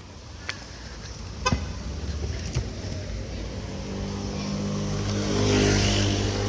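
A motor vehicle's engine drawing near and passing close by. The steady engine hum grows louder and peaks with a rush of noise about five and a half seconds in.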